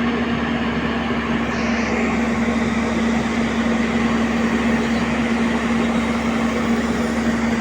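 Heavy diesel engine running steadily at constant speed, with an even hum.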